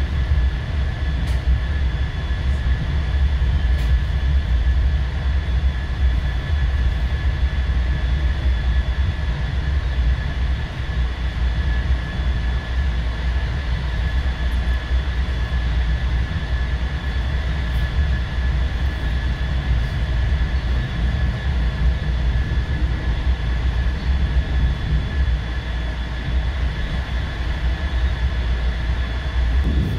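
Passenger train running steadily, heard from inside the carriage: a continuous low rumble of the wheels on the rails, with a thin high whine held steady throughout.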